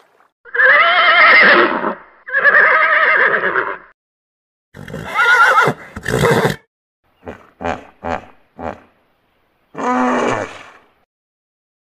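Horse whinnying: two long, quavering whinnies, then two more, a few short calls, and a last whinny that falls in pitch.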